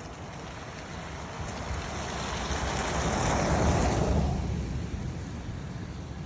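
A vehicle passing on a wet road: tyre hiss and rumble swell to a peak just past halfway, then fade away.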